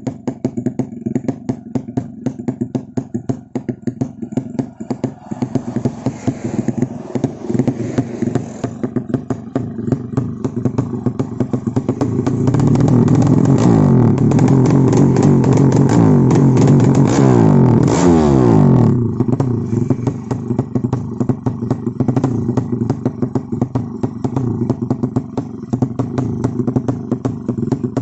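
Tuned motorcycle race engine running with a choppy, rapid idle. It is revved up about twelve seconds in, held high for several seconds, then drops back to idle.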